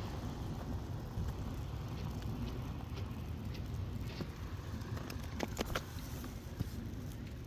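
Steady low outdoor rumble, with scattered light clicks and a quick cluster of sharper ticks about five and a half seconds in.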